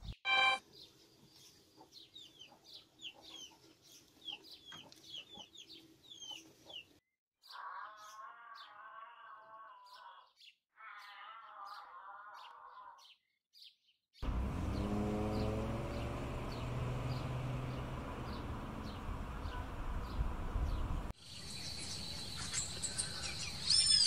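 A run of bird sounds joined from separate clips. Quick downward-sweeping chirps come first, then two stretches of a wavering, warbled call. A rough noisy passage follows, and sharp bird calls return near the end.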